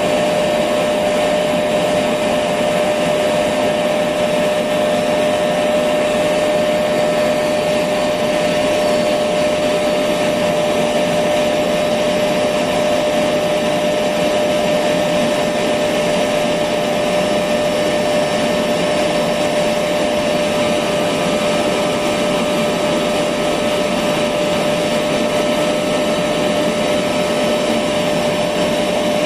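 Electric vacuum cleaner running steadily, a constant motor whine over a dense airflow hiss, played continuously as white noise for a baby to sleep to.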